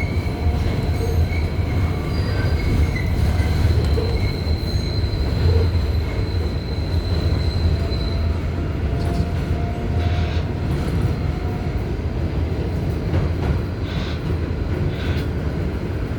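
R188 subway train running between stations: a steady low rumble of wheels on rail, with thin high-pitched wheel squeal that dies away about halfway through.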